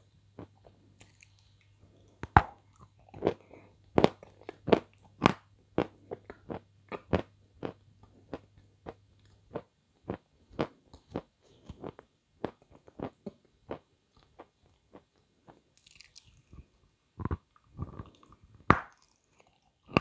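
Close-up biting and chewing of a glazed ice cream bar, the coating crunching in sharp crackles about twice a second, with the sharpest crunches a couple of seconds in and near the end.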